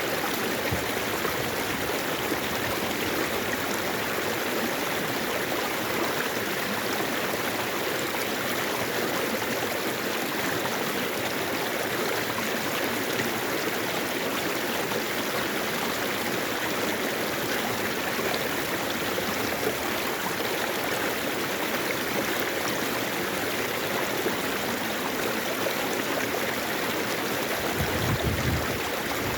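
Mountain valley stream running over rocks: a steady, even rush of flowing water, with a brief low rumble near the end.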